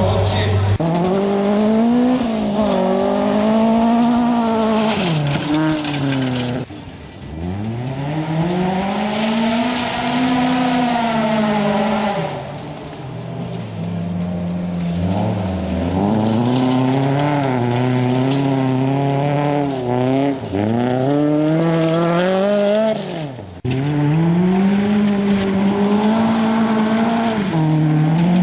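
Honda Civic race car's swapped-in B20 VTEC four-cylinder engine at full race throttle, its pitch climbing and falling again and again through the revs and gear changes. The engine note cuts off abruptly twice, once about a quarter of the way in and again near the end.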